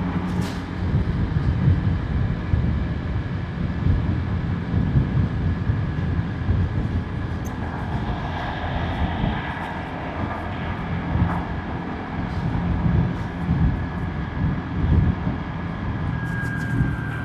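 Motorbike riding on the road: wind rumbles and buffets the microphone over the bike's running engine. A louder swell of passing traffic comes about eight seconds in.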